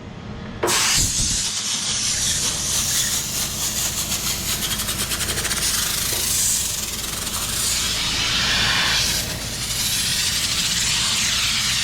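Compressed air from an air-compressor blow gun hissing steadily as it is blasted through a dirty air-conditioning condenser coil to drive the packed dirt out. It starts abruptly just under a second in, and a steady low hum runs underneath.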